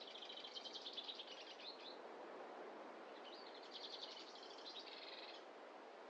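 A songbird singing two rapid, high trilled phrases of about two seconds each, the second starting about a second after the first ends, over a faint steady rushing background.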